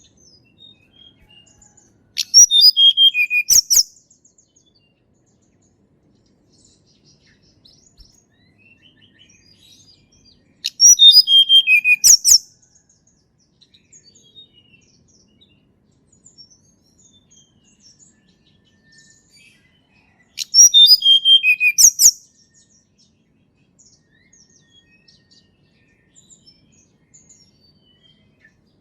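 Tledekan gunung (a mountain blue flycatcher) singing: three loud, quick phrases about nine seconds apart, each a run of clear notes falling in pitch and ending in a sharp high flourish. Faint high chips fill the gaps between them.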